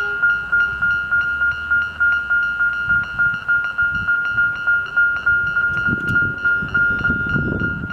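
Barker Technics Type 1 electronic level-crossing bell ringing close up: a loud, high electronic tone struck over and over in an even, rapid rhythm, sounding that the crossing is activated for an approaching train. A low rumble builds under it near the end.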